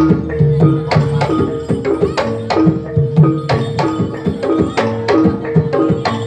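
Live Javanese jaranan music: hand drum strokes in a steady beat over the ringing, held tones of gong-chime percussion.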